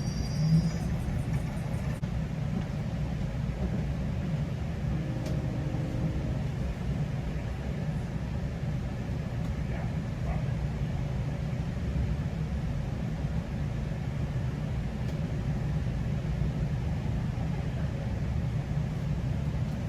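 GO Transit commuter train running between stations: a steady, even low rumble of the train moving on the track.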